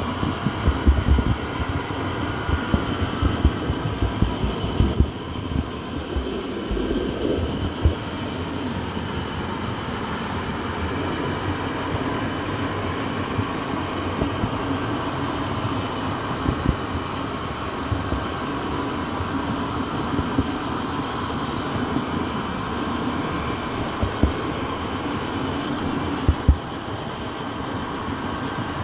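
A train running on the rails: a steady rumble with irregular knocks and thumps, more of them in the first several seconds.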